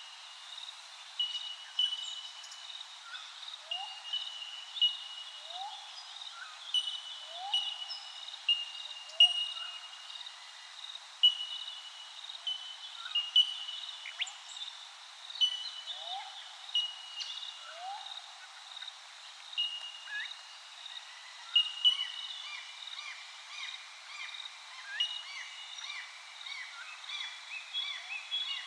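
Several birds calling together: a high, steady whistled note repeating every second or two, short upward-sliding low whistles every couple of seconds, and a rapid run of falling notes from about two-thirds of the way through.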